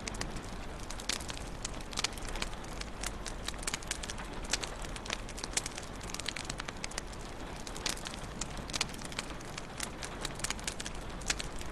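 Wood fire in a fireplace crackling, with irregular sharp pops and snaps over a steady soft hiss of burning.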